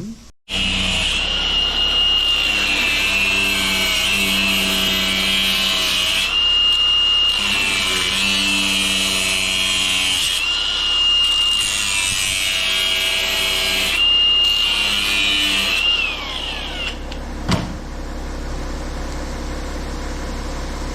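BMW N57 3.0 diesel engine running after a fuel filter change and priming, with a high steady whine over a low rumble. About 16 seconds in the whine falls in pitch and stops, leaving the engine's steadier, lower running sound.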